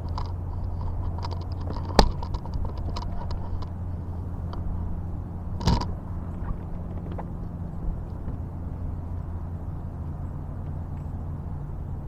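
A steady low motor hum, with two sharp knocks, one about two seconds in and one near six seconds.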